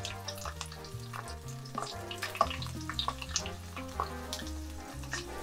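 Nanohana stalks sizzling in olive oil in a frying pan as they are turned over with tongs, with scattered clicks of the tongs against the pan.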